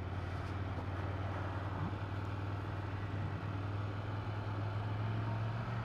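Ducati 797's air-cooled L-twin engine running steadily at low revs, a constant low hum with no revving.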